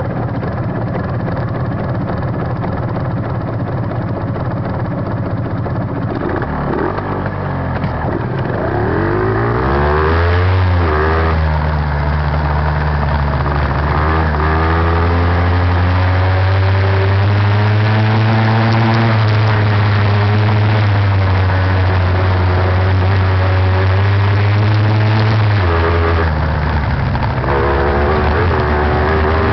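Beta TR 33 trials motorcycle's two-stroke engine, recorded onboard: it runs at a low steady note, revs up from about seven seconds in, then holds a higher note with gentle rises and falls in pitch. Near the end the revs drop and it settles into a lower steady note.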